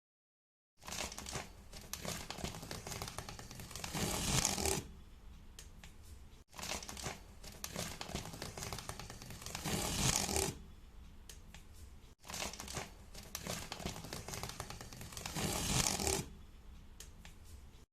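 Crinkling, crackling handling sounds in three similar takes, each building to a louder burst near its end and each cut off abruptly.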